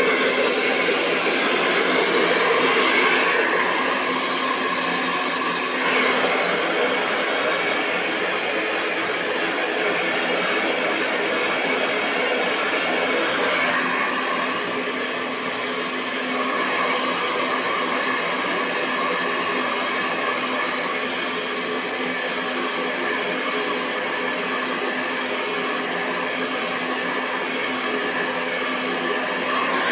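Hair dryer running continuously: a steady rush of blown air over a faint motor hum, shifting slightly in tone a couple of times.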